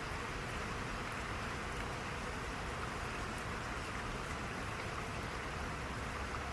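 Steady rain falling, an even hiss with a low rumble underneath and a few faint drop ticks.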